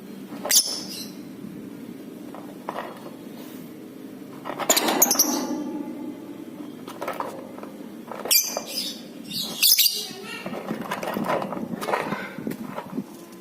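Lovebird giving shrill chattering calls in short bursts, about half a dozen spread through, the loudest and longest about five seconds in, over a steady low hum.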